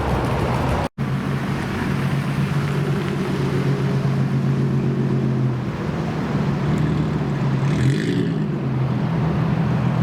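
Car engine running at low revs with a deep, steady note. The sound drops out for an instant about a second in, the note shifts slightly a little past halfway, and a short swell of noise comes near the end.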